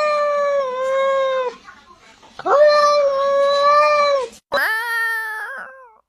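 Cat giving long, howl-like yowls: two drawn-out, steady calls of about two seconds each, then, after a click, a shorter yowl that falls in pitch.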